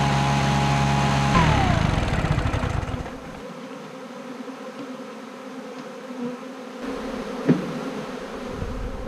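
Stihl blower engine running steadily, then let off about a second and a half in, its pitch falling as it winds down to a stop. Then the buzzing of honey bees that have just been blown out of the honey supers.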